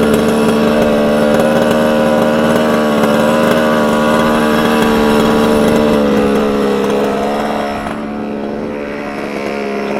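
Small two-stroke gasoline engine of a 1/5-scale Losi 5ive-T RC truck running steadily, its pitch wavering slightly. It drops a little quieter about eight seconds in.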